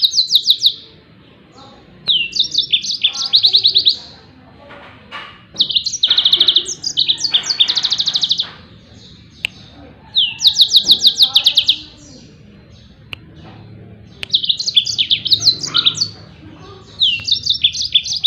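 Yellow-fronted canary (Mozambique canary) singing its rapid 'tembakan' phrases: loud bursts of fast, high, repeated trilling notes, each lasting one to two seconds. The bursts come back about every four seconds, five times over.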